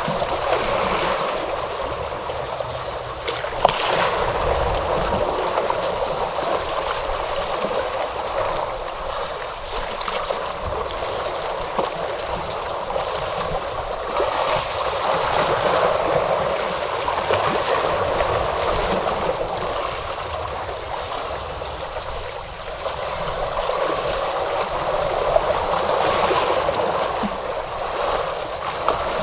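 Ocean surf washing onto a shore: a continuous rush of water that slowly swells and eases, loudest about every ten seconds.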